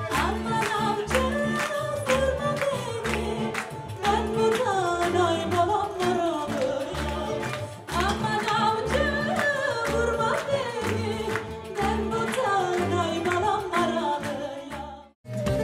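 A woman singing an Anatolian folk song with band accompaniment, her melody bending and ornamented over a steady low beat. The music breaks off abruptly just before the end.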